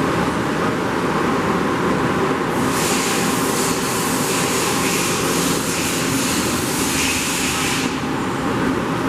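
Steady running noise of shop machinery with a constant hum. A higher hiss joins it about three seconds in and stops about eight seconds in.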